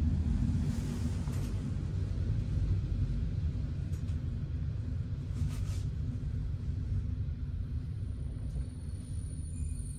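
Steady low rumble of a regional train running on the rails, heard from inside a passenger coach, with a faint steady hum.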